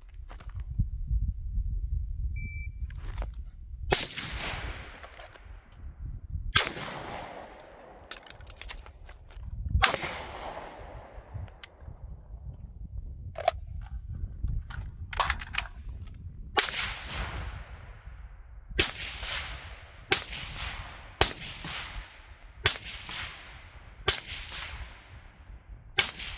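A suppressed carbine firing about a dozen shots, each followed by a fading echo. The first three are a few seconds apart, then a quicker string comes about every second and a half.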